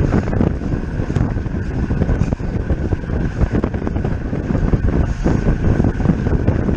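Wind buffeting the microphone of a camera carried on a racing road bicycle at speed: a steady, loud rush with gusty low rumble.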